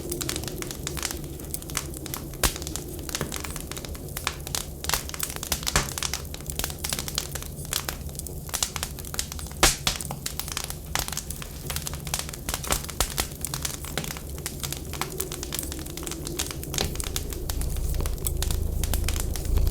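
Wood fire crackling in a firewood stove, with irregular sharp pops and snaps over a steady low rumble that grows louder near the end.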